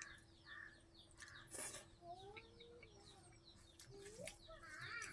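Faint bird calls: small birds chirping in quick repeated runs, with a few longer, lower gliding calls among them. A steady faint hum and a few soft clicks lie underneath.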